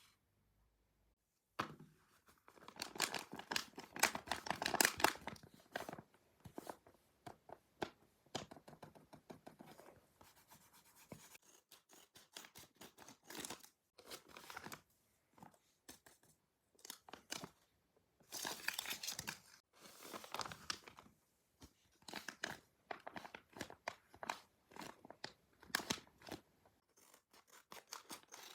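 Paper crinkling and tearing as a handmade paper blind bag is opened, in irregular bursts of crackle with short pauses between them.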